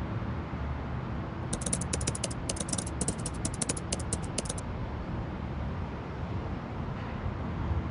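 A run of rapid light clicks like keyboard typing, in short clusters, from about one and a half to four and a half seconds in, over steady low outdoor rumble.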